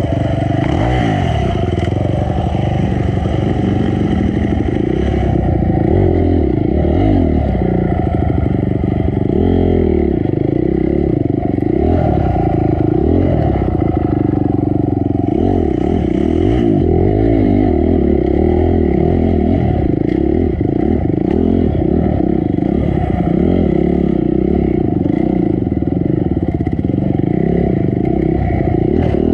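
Honda CRF250 dirt bike's four-stroke single-cylinder engine revving up and down over and over, the pitch rising and falling every second or two as the throttle is worked.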